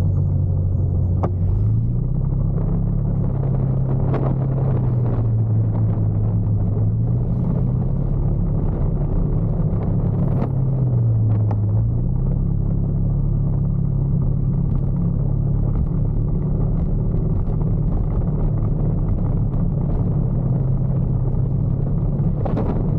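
Motorcycle engine running under way, its pitch rising and dipping a few times with throttle and speed changes, under a steady low rumble of road and wind.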